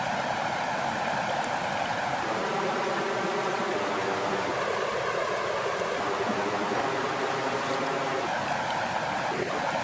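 Water flowing in a steady, continuous rush.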